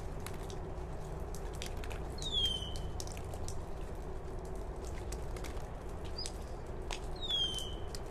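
A bird calls twice, each call a short downward-sliding chirp, about five seconds apart. Light handling clicks and a steady low hum of room noise run underneath.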